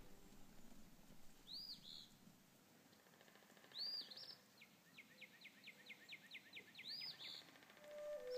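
Faint bird song: groups of short rising-and-falling chirps about every three seconds, with a quick trill of repeated notes between the last two groups.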